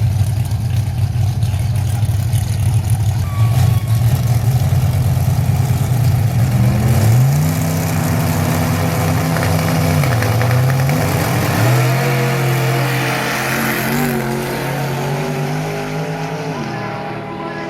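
Two drag cars, a 1994 Pontiac Firebird and a Chevy Nova, running loud and steady at the start line, then launching about seven seconds in: the engine pitch climbs sharply, dips and climbs again at gear shifts, and fades as the cars pull away down the strip.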